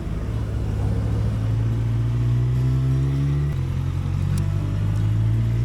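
Suzuki GSX1250FA motorcycle's inline-four engine pulling under gentle acceleration, its pitch rising steadily, dropping suddenly at an upshift about three and a half seconds in, then climbing again.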